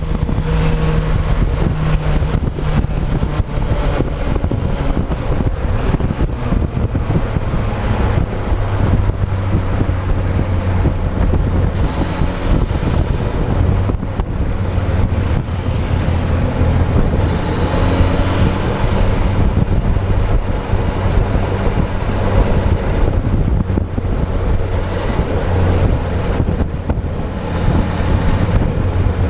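Motorcycle engine running under way, its low note shifting now and then with the throttle, under heavy wind rush buffeting a tank-mounted action camera's microphone.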